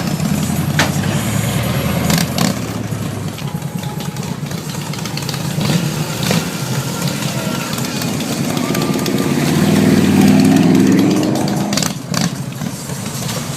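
Vehicle engines idling and running at low speed. About ten seconds in, one engine swells louder with a shifting pitch, then fades.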